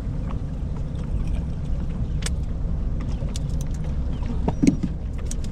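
Steady low rumble of a boat on the water, with scattered light clicks and one louder knock about four and a half seconds in.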